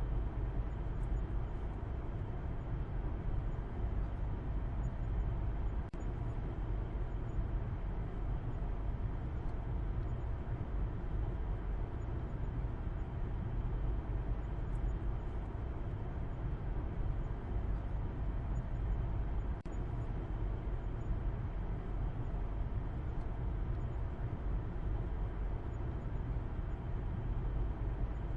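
A car driving, with a steady low rumble of road and engine noise. The level drops briefly twice.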